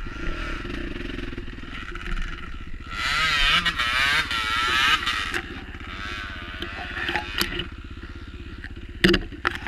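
Enduro dirt bike engine running along a trail, its pitch rising and falling with the throttle for a couple of seconds midway, with a sharp clatter near the end.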